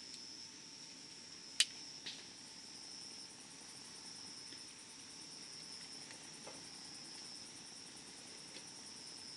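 Campfire crackling with a few sharp pops, the loudest about a second and a half in and another just after, over a steady high chirring of crickets.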